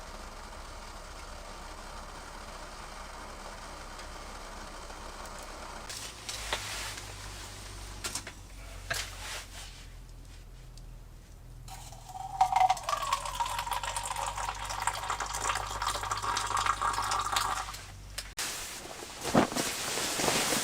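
Water being poured or running into a container for about six seconds, stopping suddenly, with a few knocks and handling sounds before and after.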